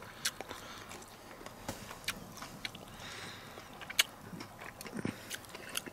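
A person chewing beer-battered fried fish: quiet, scattered short clicks and smacks of eating, the sharpest about four seconds in.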